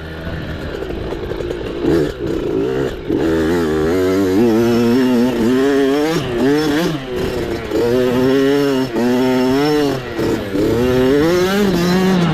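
Small off-road mini bike engine revving up and down repeatedly as the throttle is opened and closed, its pitch rising and falling every second or so, less steady for the first few seconds.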